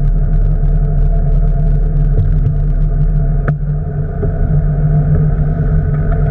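Boat engine running at a steady speed, a loud, even low hum. A single sharp click about three and a half seconds in.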